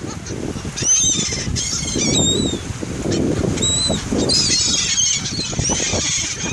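Seagulls calling: a string of short, high, arching cries from several birds, over a steady low rumble.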